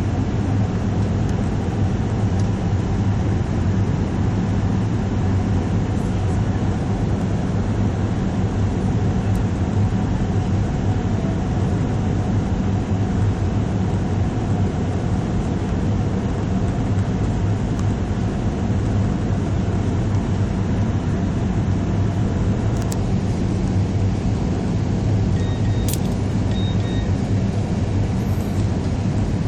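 Jet airliner cabin noise during landing: a steady low drone of engines and rushing air, heard from inside the cabin. Two short beeps sound near the end.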